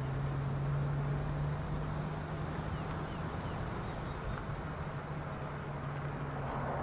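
Car engine running steadily with a constant low hum, a few faint ticks near the end.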